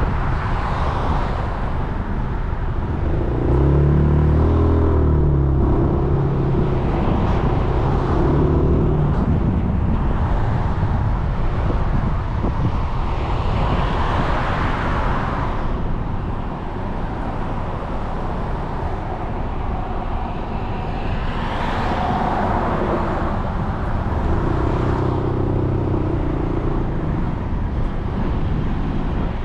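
Wind and road noise on a moving Suzuki Burgman 400 scooter riding in traffic, with engine hum and passing vehicles. The rush swells several times, and a steady engine drone comes in twice for a few seconds.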